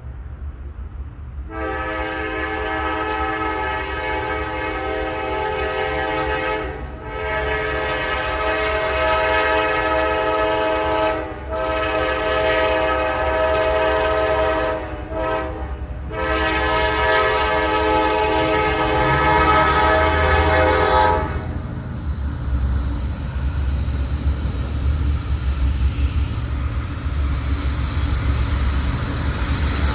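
Norfolk Southern freight locomotive's multi-chime air horn blowing a series of long blasts, with a short blast near the end, for about twenty seconds. After the horn stops, there is a heavy, steady rumble as the locomotive passes.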